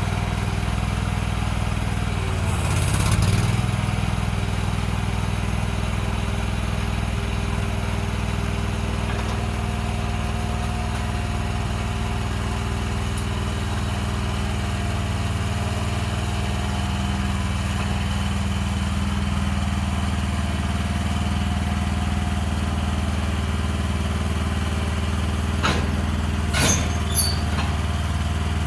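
A small engine running steadily at an even speed, with a few sharp metal knocks near the end.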